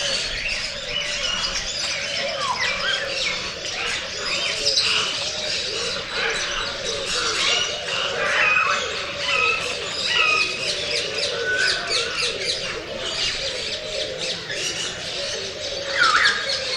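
Many birds chirping and squawking together in a dense, unbroken chorus of short calls, with one louder rising call near the end.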